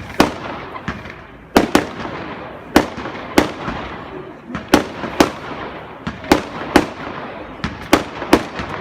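Fireworks going off: about a dozen sharp bangs at irregular intervals, sometimes two close together, each with a short echoing tail, over continuous crackling.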